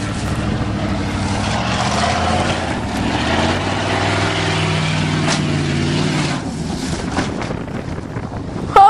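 '88 Chevy truck's engine pulling hard up a hill climb, its note rising from about four seconds in and easing off after about six seconds, with wind on the microphone.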